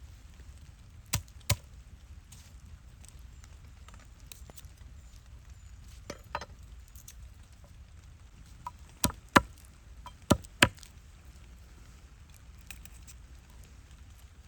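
Sharp chopping knocks on wood: two about a second in, two more midway, then a quicker run of five, the loudest.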